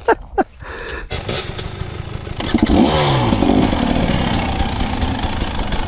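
Dirt bike engine revving up sharply a little over two seconds in, its pitch gliding, then running steadily.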